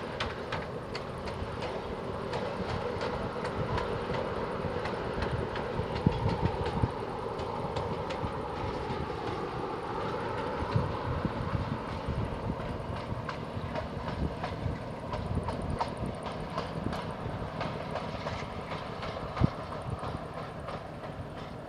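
Diesel locomotive running along the track, its engine going steadily under a stream of wheel clicks over rail joints, with a few sharper knocks.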